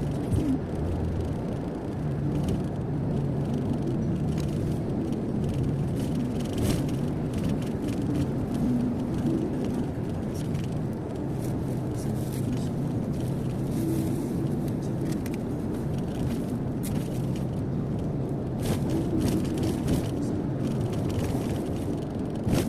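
Car driving at steady speed, heard from inside the cabin: a constant low drone of engine and tyre noise on the road, with scattered faint ticks and knocks.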